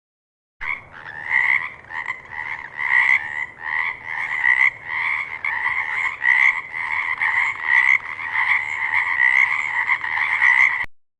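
Frogs croaking: a dense, continuous run of overlapping pulsed calls that starts about half a second in and cuts off abruptly near the end.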